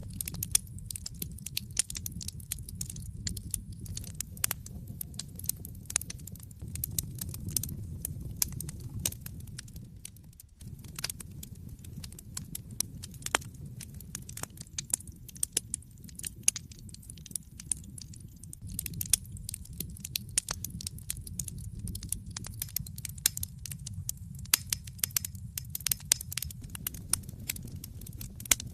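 Wood fire in an open fireplace crackling, with frequent sharp, irregular pops over a steady low rumble of the flames. The rumble dips briefly about ten seconds in.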